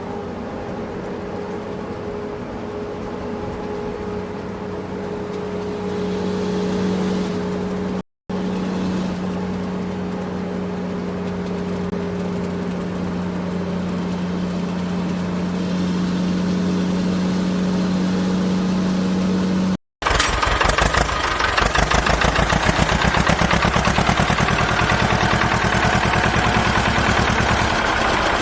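Engine sound: a steady droning hum for about twenty seconds, interrupted twice by brief silent cuts. It then switches to a louder, rapid chugging engine idle, like a diesel tractor.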